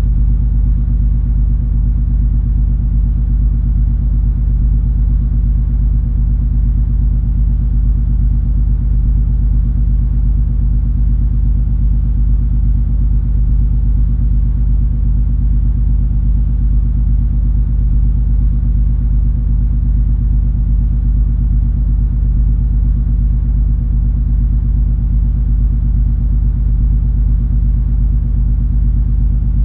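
Steady low drone of the cruise ferry MS Color Magic's engines and machinery, heard aboard while the ship is under way: an even rumble with a low hum of several fixed tones.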